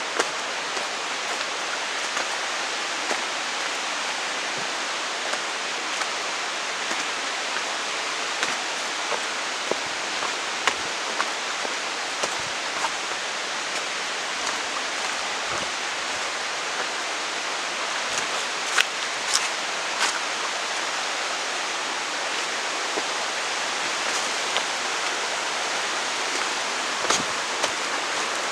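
Waterfall rushing: a steady hiss of falling water, with scattered sharp clicks and taps here and there.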